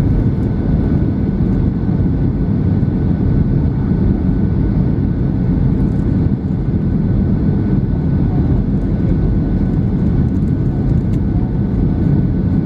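Boeing 737-700 cabin noise in flight: a steady, loud rumble of engine and airflow, with a faint steady whine above it.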